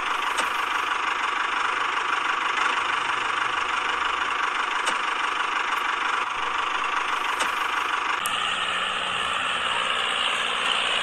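Small electric motor of a DIY model running steadily with a whir, its sound shifting slightly about eight seconds in.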